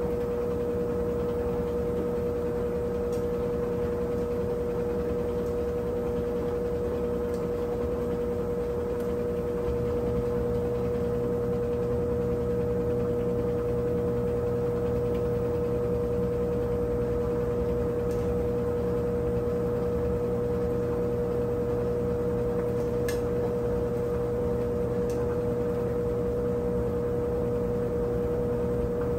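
Brastemp 17 kg washing machine running mid-cycle: a steady motor hum with one high, even tone. About ten seconds in, a deeper hum joins and it gets slightly louder, with a few faint ticks now and then.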